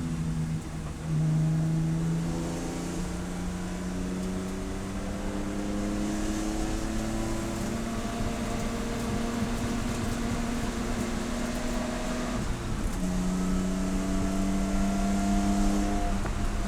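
Race car engine under load, its note climbing slowly for about eleven seconds, then dropping sharply and climbing again from the lower pitch.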